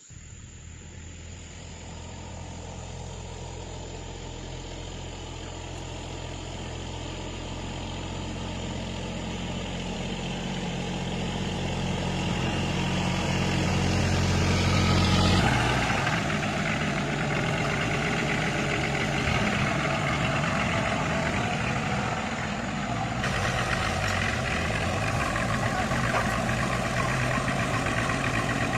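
A motor vehicle engine running, its steady hum getting louder for about fifteen seconds. Then its sound changes suddenly to a rougher, busier running note that carries on.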